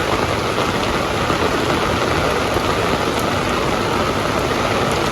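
Heavy rain falling steadily: an even hiss with a few faint drop ticks.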